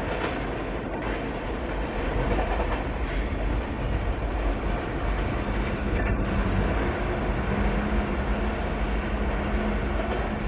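Train rolling past on the track, with steady wheel and rail noise and a light clickety-clack. A faint steady hum joins about halfway through.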